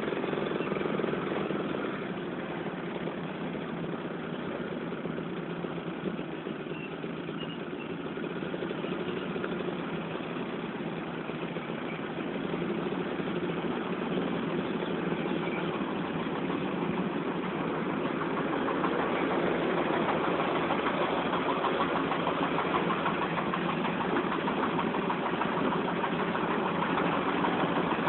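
Mercedes-Benz 917 truck's diesel engine running steadily, getting somewhat louder about halfway through.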